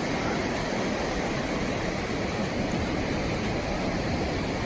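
Ocean surf washing onto a sandy beach: a steady, even rushing noise with no distinct breaks.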